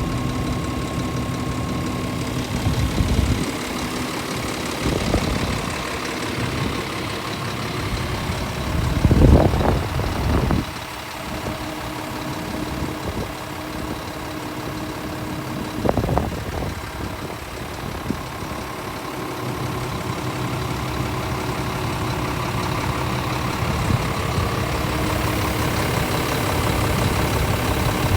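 Scania S500 truck's 13-litre inline-six diesel idling steadily, with a few brief louder bursts, the loudest about nine to ten seconds in.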